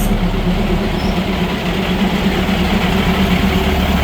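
Diesel train engine running steadily with a constant low hum.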